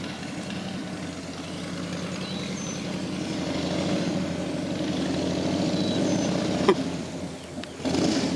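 A vehicle engine running steadily, slowly growing louder, with a sharp click about two-thirds of the way through.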